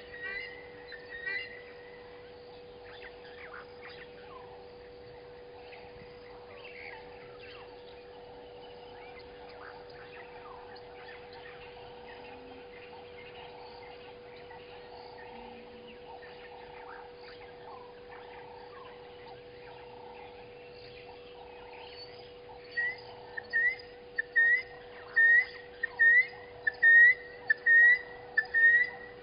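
Bush ambience with faint scattered bird calls over a steady low hum. A bird close to the microphone gives a quick series of short chirps, each a sharp upward flick, at the very start. It starts again about three quarters of the way through and runs on as a rapid, loud series of about two chirps a second.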